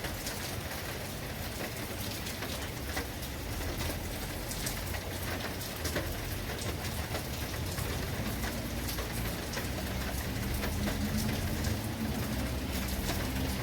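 Steady rain falling, with many distinct drop hits on a surface. A low steady hum comes in a little past halfway and grows slightly louder.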